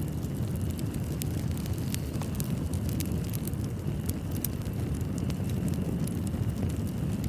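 Fireplace fire crackling: a steady low rumble of the flames with many scattered sharp pops and crackles.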